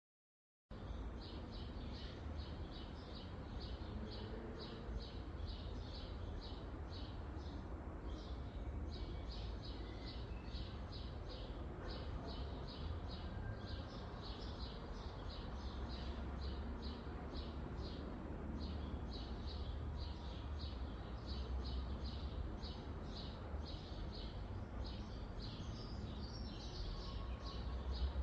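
Garden ambience: a bird chirping over and over, about three short chirps a second with brief pauses, over a steady low rumble of wind or distant traffic. It starts after a moment of silence.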